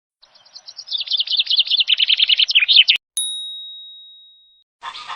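A small bird twittering in a fast run of high chirps, about ten a second, growing louder. About three seconds in it cuts off at a click, and a single bell-like ding rings out and fades over about a second and a half.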